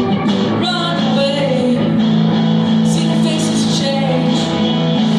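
Live music: a woman singing over held instrumental chords, likely guitar.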